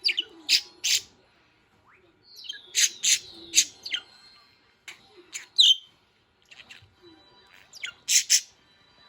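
Small pet parrots giving short, sharp chirps and squawks in scattered clusters, with one falling whistled note a little over two seconds in.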